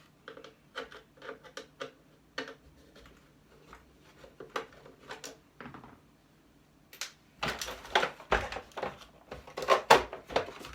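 Hand-dismantling an appliance: a string of small clicks and light knocks from tools on the screws and housing, then louder clattering and knocking of plastic and metal parts from about seven seconds in as the casing comes apart.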